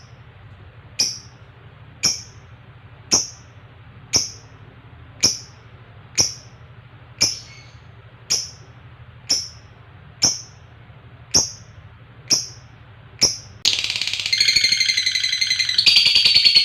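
Lovebird giving single sharp, high chirps about once a second, then breaking into a long, rapid chattering trill near the end. This is the 'ngekek panjang' song prized in lovebirds.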